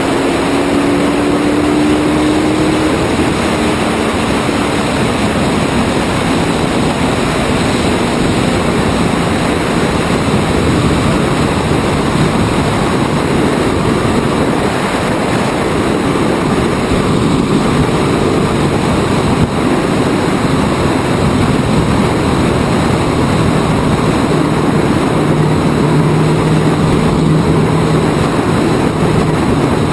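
Open-wheel Indy-style race car's engine running flat out against its rev governor, under a loud, even rush of noise. The engine note sags slightly in the first few seconds, and a lower steady note comes in near the end.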